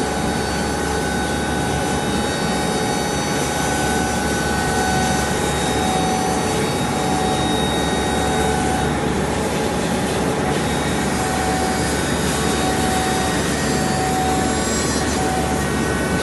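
CNC stone-working machine cutting marble: a steady grinding noise with a faint steady whine over it.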